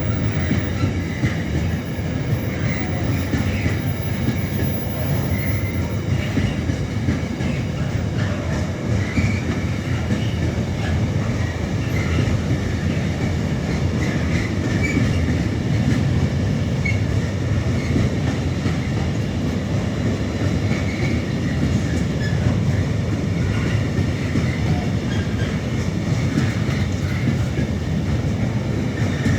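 A long freight train rolling steadily past, its wheels clattering on the rails with occasional light squeals.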